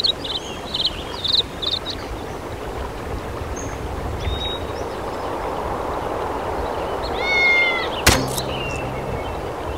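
Cartoon nature ambience: short bird chirps over a steady background hiss, with a louder gliding call about seven seconds in. A sharp click follows about a second later.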